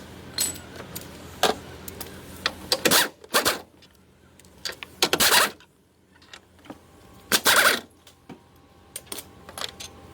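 Metal tools and parts clinking and clicking irregularly during car repair work, with a few louder half-second scraping or rattling bursts, about four in all, in the middle of the stretch.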